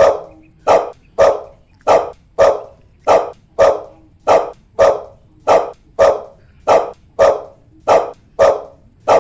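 A dog barking in a steady, even rhythm: about sixteen single barks, a little under two a second, each one short and sharp.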